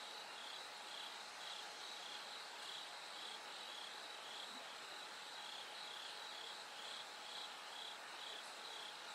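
Bell crickets chirping in short pulses, about two a second, over a steady high trill of other autumn insects.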